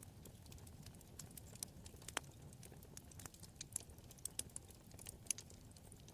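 Wood fire crackling: irregular sharp snaps and pops over a faint low rumble of flame, the crackles coming thicker in the second half.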